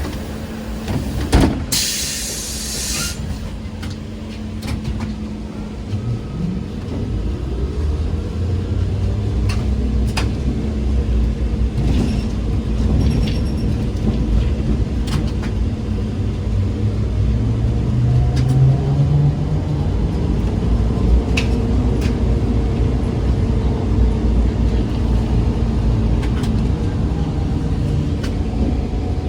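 ZiU-682 trolleybus running, with a steady low rumble. About a second and a half in there is a knock and then a short hiss of compressed air. After that, a whine rises in pitch as the traction motor pulls the trolleybus away, and it rises again later on.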